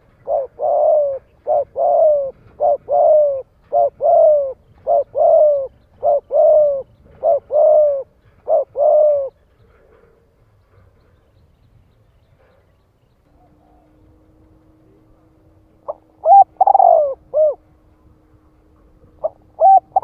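Spotted dove cooing: a quick run of short coos, mostly in pairs, for about nine seconds, then a pause and a further coo phrase near the end. A faint steady hum sits under the second part.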